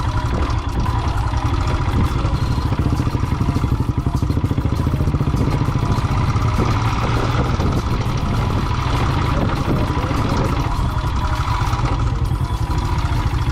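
Royal Enfield single-cylinder motorcycle engine running steadily while riding, a dense fast pulse low down.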